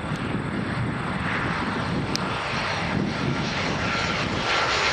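Jet airliner engines, a Boeing 737, running as the plane nears, the noise growing slightly louder toward the end, with a thin steady whine joining about four seconds in.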